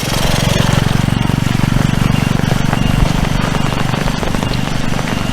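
A motor vehicle engine running steadily with a low hum, swelling up just as the sound begins, over a constant hiss.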